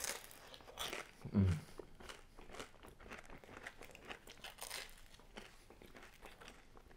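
Crispy thin pizza crust crunching as it is bitten and chewed, in many small irregular crackles, with a short low hum about a second and a half in.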